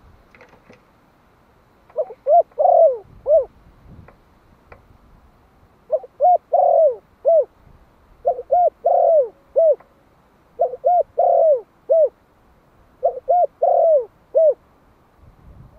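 A male spotted dove of the Malai strain cooing its calling song: five phrases a couple of seconds apart, each a quick run of four or five short, arching coos.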